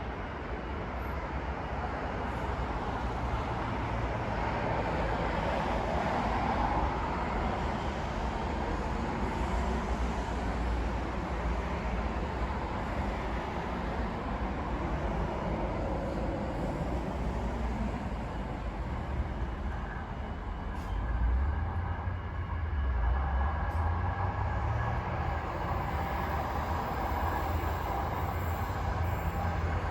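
A passenger train running through the station, with a wavering whine in the first half and a heavier low rumble that picks up about two-thirds of the way through.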